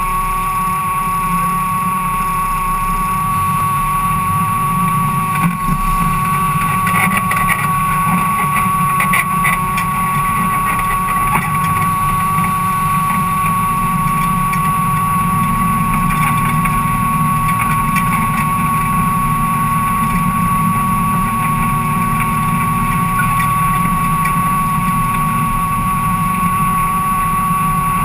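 Ford Cortina race car engine running steadily at low revs, heard from inside the stripped, caged cabin. A steady high-pitched whine sits over the engine sound.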